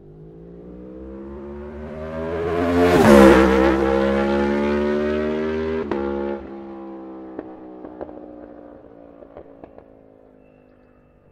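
Aprilia Tuono V4's 1077 cc V4 engine through an Akrapovic half-system exhaust, passing by at speed: it grows louder, its pitch drops sharply as it goes past, then it fades away. About six seconds in the throttle is shut and the exhaust crackles and pops on the overrun as it recedes.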